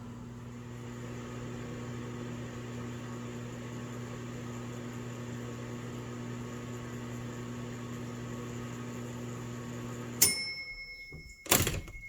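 1981 Sears Kenmore microwave oven running with a steady hum. About ten seconds in it shuts off with a sharp click and a ringing bell ding, the end-of-cycle signal. A second loud clack follows about a second and a half later.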